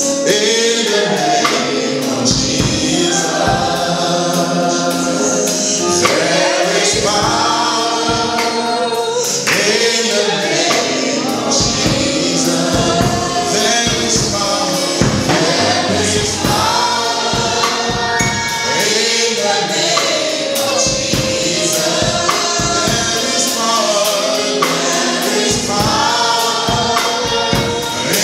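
Gospel choir singing with a band, a steady beat and tambourine.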